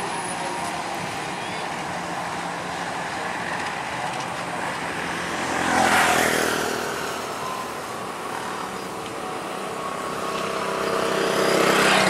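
A passenger train hauled by a CC201 diesel locomotive rolling past as it comes into the station: a steady rumble of the coaches' wheels on the rails. It swells about six seconds in and again near the end.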